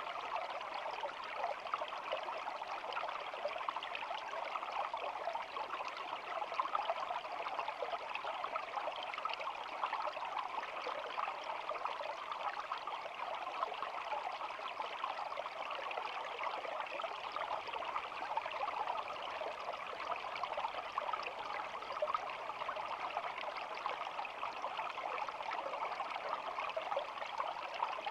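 Shallow stream babbling and trickling over stones, a steady, even rush of water.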